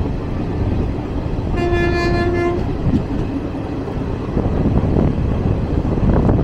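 Running noise of a moving passenger train, heard from aboard, with a single train horn blast about one and a half seconds in: one steady note held for about a second.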